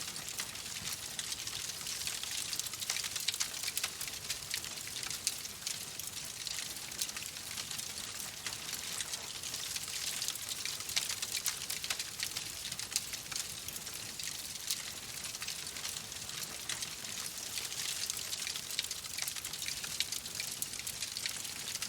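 Wood fire crackling and hissing in a fireplace: a steady hiss with many small, sharp pops and snaps throughout.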